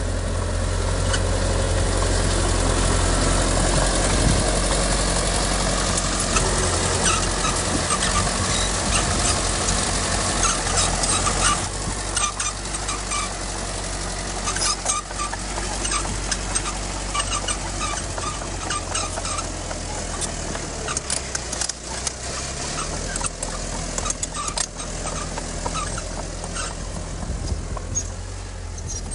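Heavy earthmoving machine's diesel engine running with a steady low drone, louder at first and easing off about twelve seconds in, with many sharp clicks and knocks over it.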